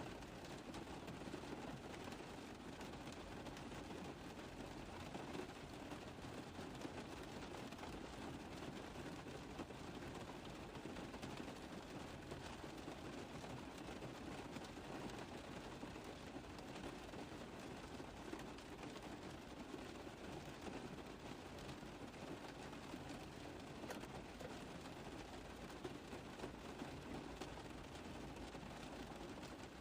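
Rain falling steadily on a car roof: a dense, even patter of drops that keeps up without let-up.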